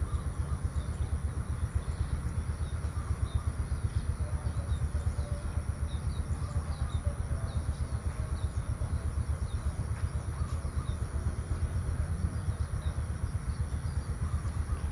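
Rural outdoor ambience: small birds chirping over and over against a steady low rumble, with a constant high-pitched tone above.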